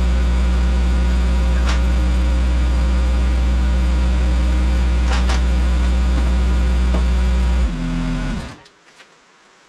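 A machine's engine running steadily, then shut off: it drops in pitch and runs down to a stop near the end.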